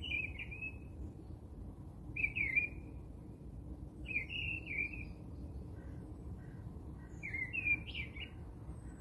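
A small bird chirping in short warbling phrases, one every two seconds or so, over a steady low background noise.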